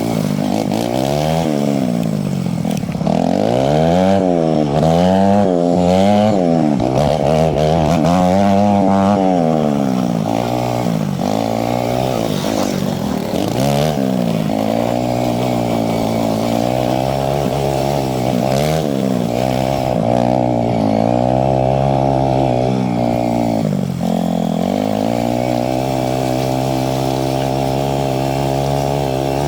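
Yamaha YZ250 two-stroke dirt bike engine revving up and down over and over as the throttle is worked. About 24 seconds in it dips briefly, then holds a steady note.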